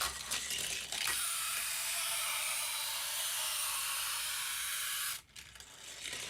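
Hot Wheels '67 Austin Mini Van die-cast car running along an orange plastic Hot Wheels track, with a few clicks at release, then a steady rolling hiss from about a second in that cuts off suddenly about five seconds in, followed by light clicks and knocks.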